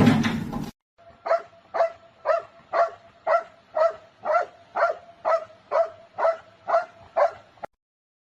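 A small dog yapping in a steady rhythm, about thirteen short high barks at roughly two a second, that stop abruptly. Before the barking, a brief loud noise cuts off under a second in.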